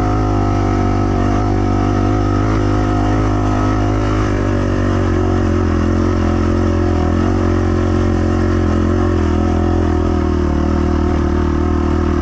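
250 cc dirt bike engine held at high revs under heavy load on a steep hill climb, with the rear tire spinning for grip. The engine note is steady and its pitch drops slightly about four seconds in.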